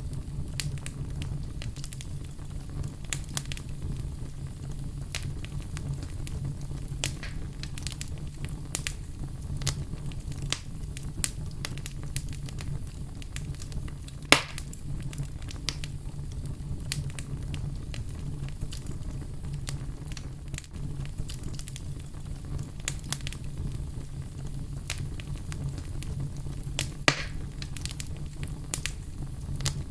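Fire crackling: a steady low rumble under frequent sharp pops and snaps, with two louder pops, one about halfway through and one near the end.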